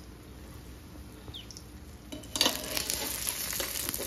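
Beaten egg frying under a paratha on a tawa: a faint sizzle that turns suddenly louder a little over halfway through, with scraping and light knocks against the pan.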